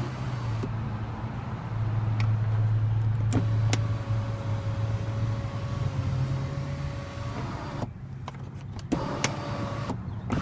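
Power moonroof motor of a Mercedes-Benz E350 running with a steady whine after a few clicks, stopping about seven seconds in, then running again briefly near the end.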